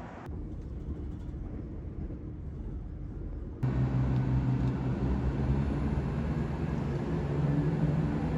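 Train running, heard from inside the carriage: a steady low rumble that becomes suddenly louder a few seconds in, with a steady low hum and a faint high whine over it.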